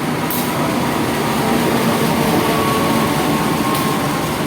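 Passenger train running on the rails: a steady, loud rumbling noise with a faint whine, and a short hiss about a third of a second in and another near the end.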